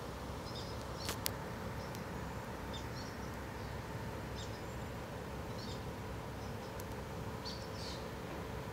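Small birds chirping in short, scattered calls over a steady low background rumble with a faint constant hum. Two sharp clicks sound about a second in.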